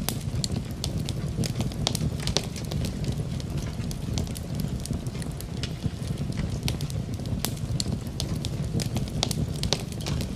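Wood fire crackling in a fireplace, with frequent irregular sharp pops over a steady low rush, blended with the steady hiss of rain.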